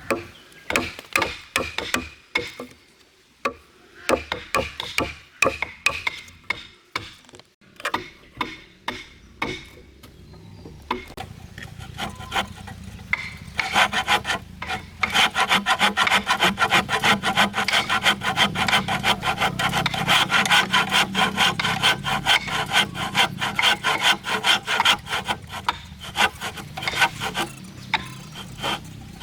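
Wood being sawn: slow, separate strokes with pauses at first, then from about halfway a fast, steady run of sawing strokes.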